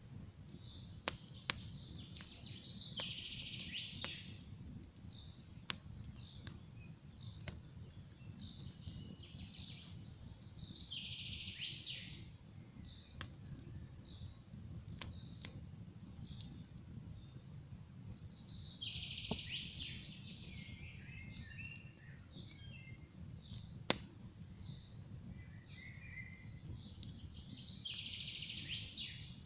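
Campfire crackling, with a few sharp pops standing out, over a steady low rumble. A songbird sings a short phrase four times, about every eight seconds, with softer chirps in between.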